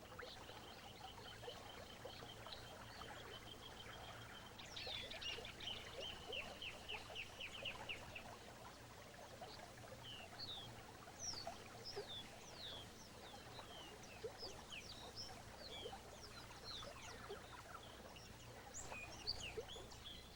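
Faint wetland wildlife calls: a high, steady trill over the first few seconds, then a quick run of short falling chirps, followed by scattered high chirps.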